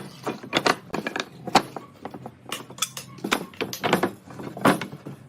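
Irregular sharp knocks and clatters, about a dozen in a few seconds, from wooden parts being worked and handled.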